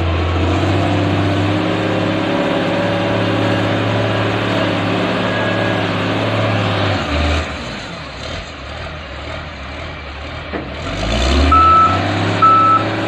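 Loader truck's diesel engine running hard, easing off about seven seconds in, then revving up again. Near the end its reversing alarm beeps twice, evenly spaced.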